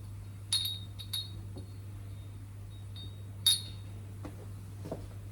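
Small metal carburettor parts clinking as they are set down: three sharp, ringing clinks, the loudest about three and a half seconds in, with a few fainter ticks, over a steady low hum.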